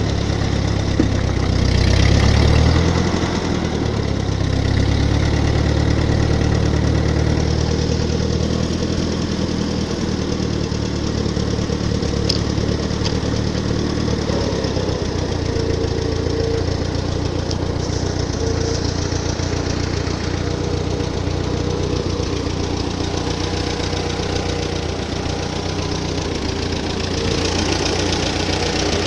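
Ford 8N tractor's four-cylinder engine running steadily under way, its revs rising briefly about two seconds in.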